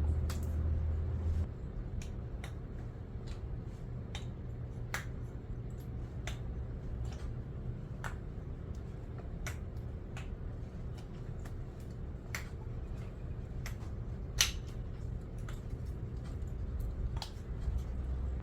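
Wooden kendama being played: sharp, irregular clicks of the ball knocking on the cups and spike, about one or two a second, with one louder knock near the end, over a low steady hum.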